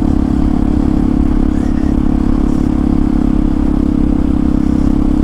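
Hero XPulse 200 4V motorcycle's single-cylinder engine running through an aftermarket Akrapovic exhaust, holding a steady note while riding along.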